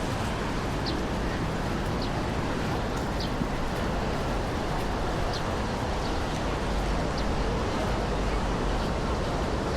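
Steady outdoor noise with a heavy low rumble and hiss, and a few faint short high chirps every second or so.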